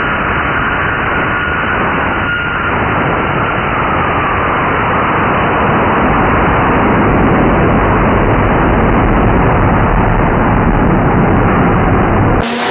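Nelson Racing Engines twin-turbo big-block Chevy V8 running hard under load on an engine dyno, its turbo exhaust glowing red-hot. The sound is steady and grows a little louder about halfway through, then cuts off suddenly near the end.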